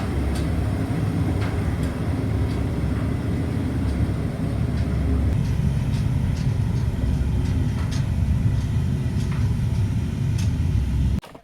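A vehicle on the move: a steady, loud low rumble of engine and road noise, with a few faint ticks, cutting off abruptly near the end.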